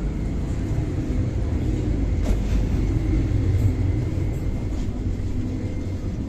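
Electric commuter train running, heard inside the passenger car: a steady low rumble with a faint steady whine over it, and one sharp click a little over two seconds in.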